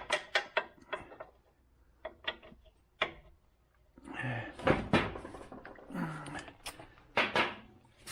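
Hand tools and metal parts clinking and knocking during work on a car's front suspension. A quick run of sharp clicks comes first, then scattered clicks, then louder clanks with some ringing from about halfway.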